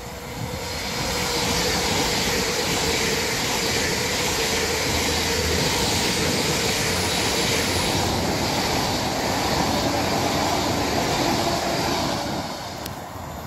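LNER Azuma and TransPennine Express Class 802 intercity trains running through the station: a steady rush of wheels on rail that builds about a second in and fades near the end.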